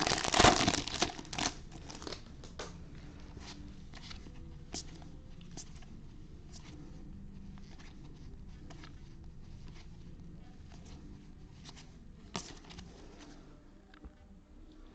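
Bowman baseball card pack wrapper torn open and crinkled, loudest in the first second and a half, followed by scattered light clicks and rustles of the cards being handled.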